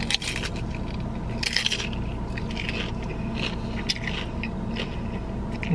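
Close-up biting and chewing of crunchy fried food, crisp crackles coming in short bursts over a steady low hum.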